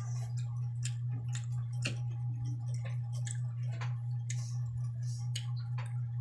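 Close-miked eating sounds of dried fish and vegetables being eaten: irregular chewing, smacking and small clicks and snaps. A steady low hum runs underneath.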